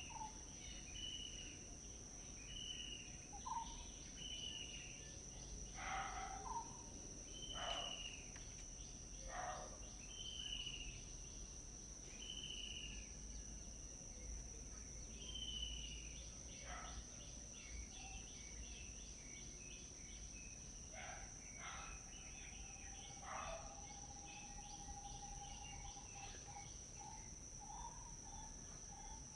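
Birds chirping and calling over a steady, high-pitched insect drone. A short chirp repeats about once a second through the first half, with louder calls scattered among them.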